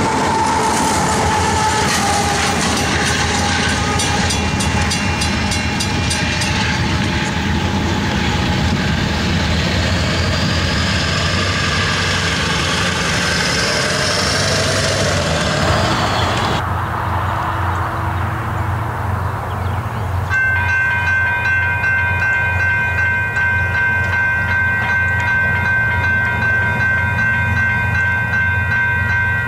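Union Pacific diesel freight train rolling past at close range, its locomotive and cars clattering over the rails. After a cut near the middle, a steady chord of held tones sounds through the last several seconds, like a distant train horn.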